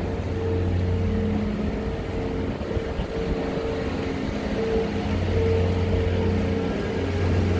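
A vehicle engine running steadily close by: a low hum with a higher tone that comes and goes.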